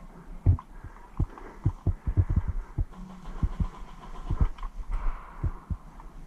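A run of low, dull thumps at an uneven pace, about two or three a second, like footfalls and kit bumping against a body-worn microphone, over a faint low hum.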